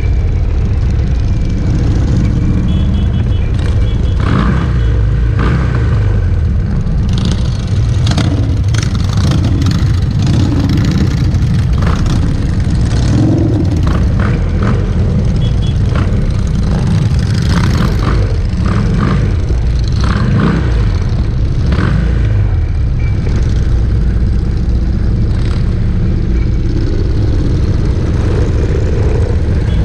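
Many motorcycle engines running together as a long stream of bikes rides past, a steady, loud low sound with engines revving now and then.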